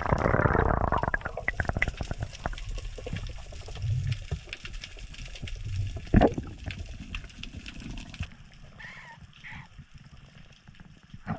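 Water sloshing and gurgling around the microphone, with dense crackling clicks and low thumps. There is a loud surge at the start and a sharp knock about six seconds in.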